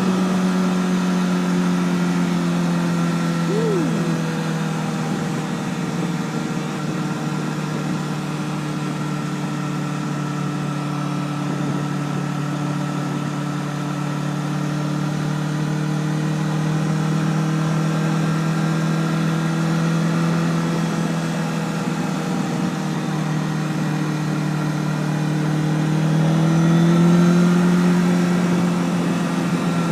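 Honda CBR1000RR's inline-four engine running at a steady cruise. Its pitch drifts gently, then rises briefly near the end as the bike speeds up.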